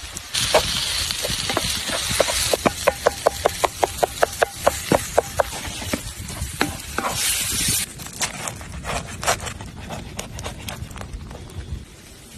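Food sizzling in a hot pan over a campfire, with a metal utensil clinking in a quick, even rhythm of about four strikes a second for a few seconds. A second short burst of sizzling comes past the middle, followed by scattered crackles and ticks.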